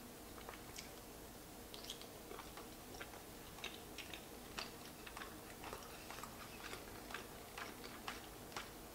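A person chewing lobster meat: quiet, irregular wet mouth clicks, a few each second.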